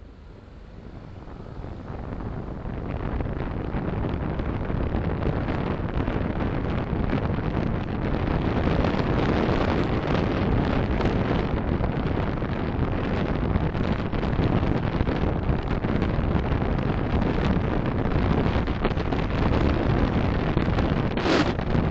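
Car driving noise picked up by a dashcam: road and wind noise that grows louder over the first few seconds, then stays steady. A brief, sharper noise comes near the end.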